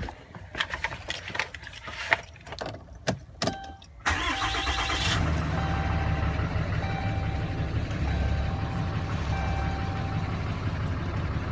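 A few clicks and knocks, then about four seconds in the 2012 Ram 2500's 6.7-litre Cummins turbo-diesel inline-six is cranked for about a second, catches and settles into a steady idle. A dash chime tone sounds on and off over the idle.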